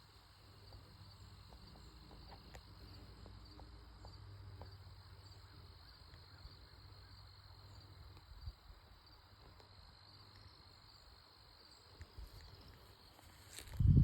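Faint steady high drone of insects in the open air, over a low rumble, with a few small ticks and rustles. A loud bump and rustle near the end.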